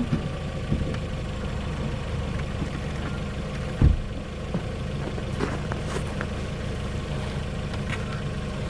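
LADA Vesta SW Cross's 1.8-litre engine idling steadily, with one sharp thump about four seconds in.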